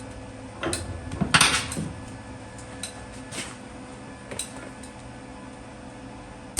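Steel workpieces clinking and knocking as they are handled on a workbench: a few separate metallic clinks, the loudest about a second and a half in.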